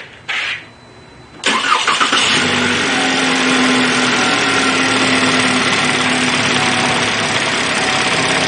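2013 Chevy Malibu's 2.5-litre four-cylinder engine cranking briefly and catching about a second and a half in, then running at a steady idle. It starts on the key after a loose engine ground was repaired, the fault behind its no-start.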